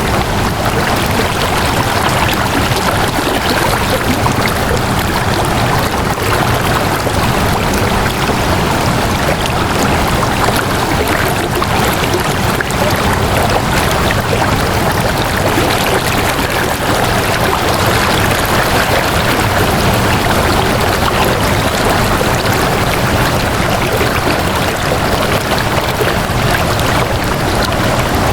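Flowing water running steadily, like a stream, an even rushing sound with no breaks or changes.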